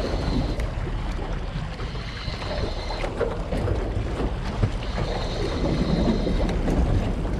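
Wind buffeting the microphone over the wash of sea waves against shore rocks, a steady rough rumble with a few small knocks.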